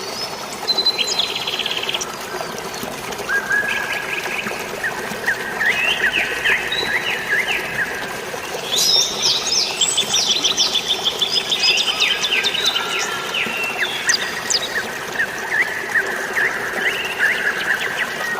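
Several songbirds chirping and trilling in quick runs of short repeated notes, busiest about halfway through, over a steady hiss of rain and falling water.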